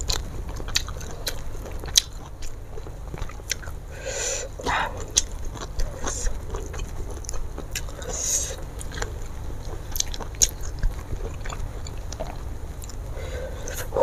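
Close-up chewing and wet mouth clicks and smacks of someone eating fried fish and rice by hand. Short clicks come irregularly throughout, with a few brief breathy sounds mixed in.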